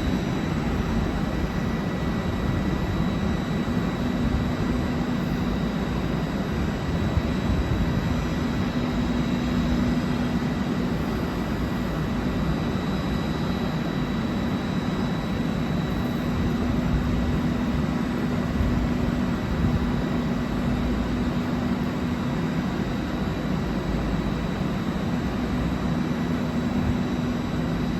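Stationary train running steadily: a constant low hum with a thin, high steady whine above it.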